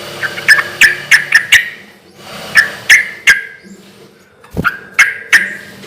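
Yellow-vented bulbul (trucukan) singing loudly in three phrases of quick, sharp chattering notes, with short pauses between.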